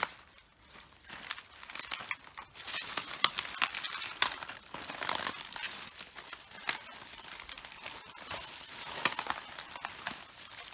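Red cabbage leaves being crushed underfoot: crisp, irregular crackling and snapping of the leaves as they break, with a short lull just after the start.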